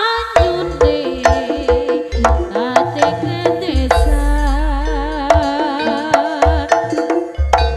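Javanese jaranan gamelan music: a singer holds a wavering melody with heavy vibrato over kendang drum strokes, with a long low tone sounding near the middle.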